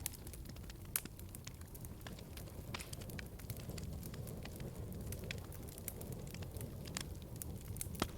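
Wood fire in a fireplace crackling, with irregular sharp pops over a steady low rumble of flames; two louder pops stand out, about a second in and near the end.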